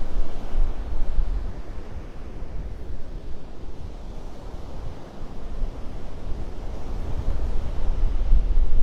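Wind buffeting the microphone in gusts, with surf breaking on the beach behind it; the wind is strongest at the start and again near the end, easing in the middle.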